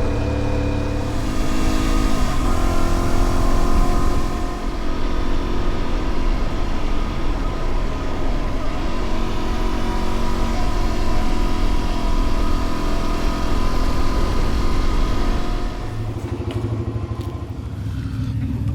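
Dual-sport motorcycle engine running under way, its revs rising and falling with the throttle, then dropping back to a lower, steadier idle near the end.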